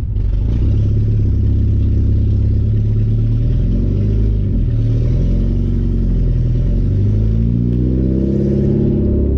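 1989 Porsche 944's 2.7-litre four-cylinder engine running through a straight-pipe exhaust with no muffler, loud while driving. Its pitch shifts up and down, then climbs steadily in the last second and a half as the engine revs up.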